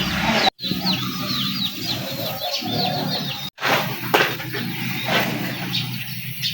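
Small birds chirping rapidly in quick repeated notes, over a steady low hum. The sound cuts out abruptly twice, and a few sharp clicks follow the second break.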